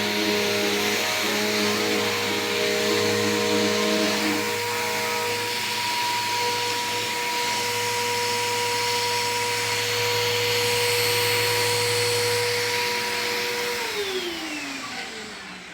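Bissell PowerForce Helix Turbo vacuum cleaner running steadily, then switched off near the end, its motor tone falling in pitch as it spins down.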